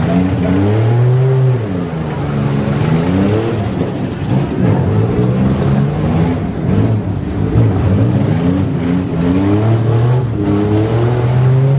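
Several demolition-derby minivan engines revving, their pitch rising and falling over one another, with a few sharp knocks in the middle.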